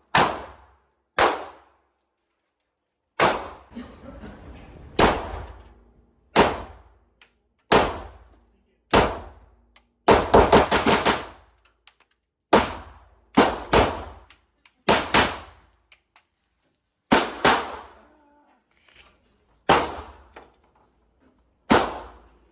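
Gunshots at a shooting range: single shots at irregular intervals, a second or two apart, with a rapid string of about eight shots around ten seconds in. Each shot rings out briefly.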